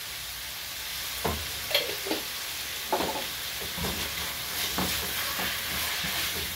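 Chopped tomatoes and onions sizzling in a coated frying pan. From about a second in, a slotted spatula scrapes and knocks against the pan in irregular strokes as the mixture is stirred.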